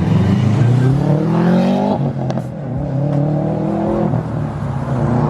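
Turbocharged car engine accelerating hard through the gears. Its pitch climbs steadily, then drops sharply at a gear change about two seconds in and again about four seconds in.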